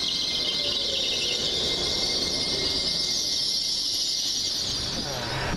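A train's wheels on the rails making a steady high-pitched metallic squeal, which cuts off near the end.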